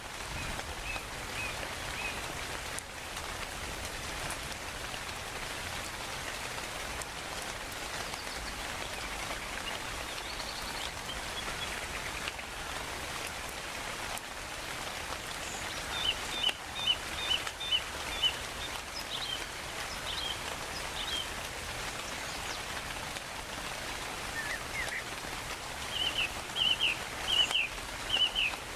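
Steady rainfall, with birds calling in quick runs of short, high chirps that are loudest around the middle and near the end.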